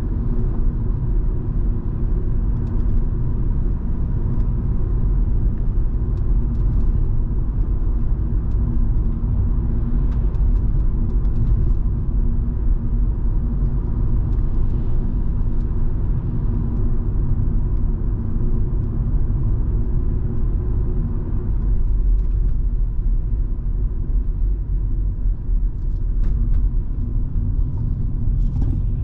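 A Volvo V70 2.5T's turbocharged five-cylinder engine and its tyres on the road give a steady low rumble as the car drives along at an even pace.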